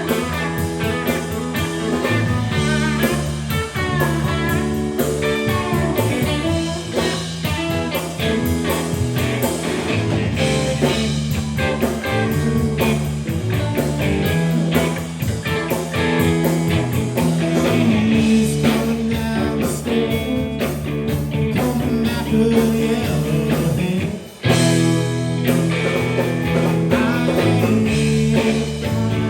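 Live blues-rock band playing, electric guitar leading over bass and drums, with a brief break near the end before the band comes back in.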